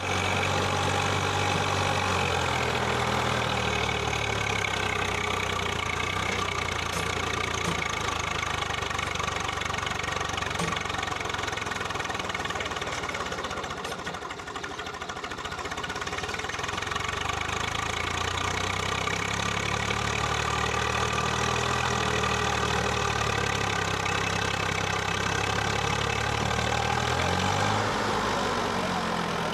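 Swaraj 744 FE tractor's three-cylinder diesel engine running steadily, easing off briefly about midway before picking up again.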